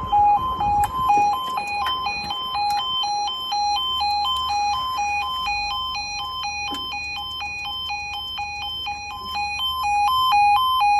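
Level crossing audible warning alarm sounding continuously: a two-tone electronic warble that alternates quickly between a lower and a higher note, warning that the barriers are about to come down for a train.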